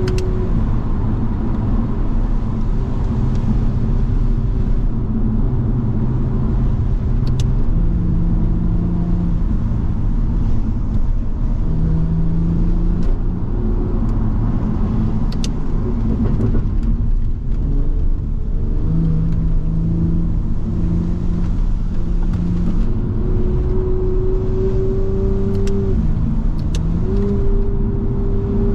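Toyota Supra MK5's turbocharged straight-six engine under way, its note holding at one pitch for a few seconds and then stepping up or down as the gears change, several times over. A steady hiss of tyres on wet road runs underneath.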